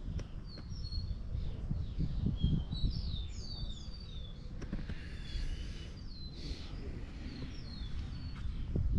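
Birds chirping outdoors: many short, quick, downward-sliding chirps throughout, over a low rumble.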